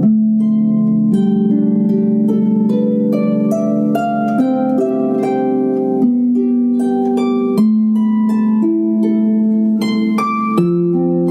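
Harp music with plucked notes over low held chords.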